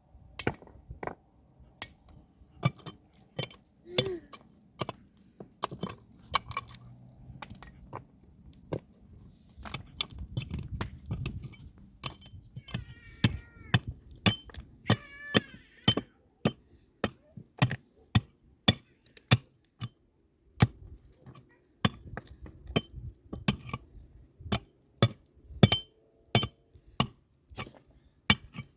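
Repeated sharp taps and knocks of a hard tool striking hard material, irregular at first, then coming at about one or two a second through the second half.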